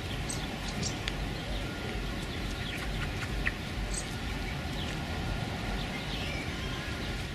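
Several short, high bird chirps scattered over steady outdoor background noise with a low rumble.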